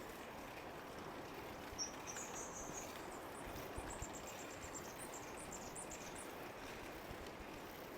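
A small bird chirping a quick series of short, high notes that jump in pitch, over a steady faint outdoor noise.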